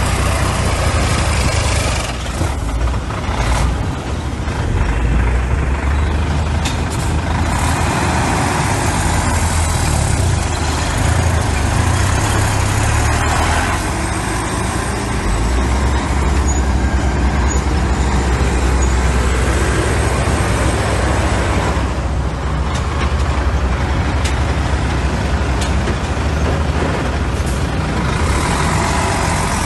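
Heavy diesel engine of earthmoving machinery running hard, a loud steady deep drone with a few sharp knocks through it.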